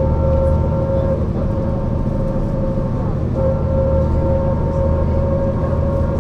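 Mercedes-Benz O 405 NÜ bus under way: a steady low engine drone with a high drivetrain whine on top. The whine breaks off briefly about three seconds in and then comes back.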